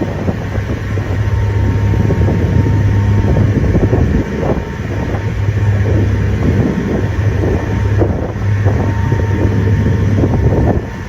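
Water taxi's engine running with a steady low hum, with wind rushing over the microphone.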